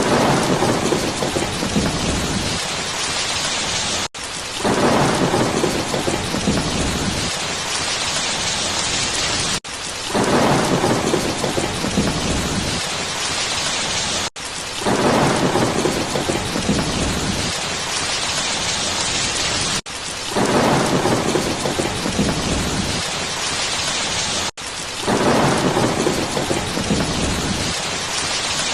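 Steady heavy rain hissing, with a rolling rumble of thunder every five seconds or so, six times. Each rumble follows a brief break in the sound, so the pattern repeats at even intervals like a looped rain-and-thunder recording.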